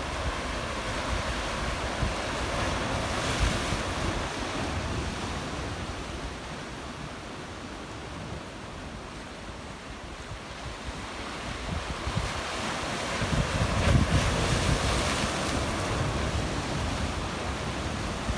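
Sea waves washing in among rocks on the shore, swelling about three seconds in and again more strongly near the end, with wind buffeting the microphone.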